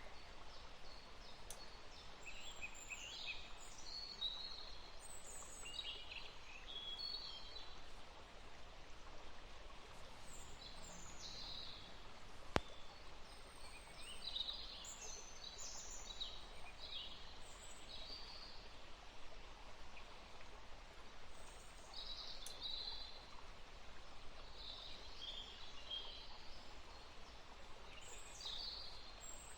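Steady rain hiss with birds chirping and calling over it throughout. A single sharp click comes about twelve seconds in.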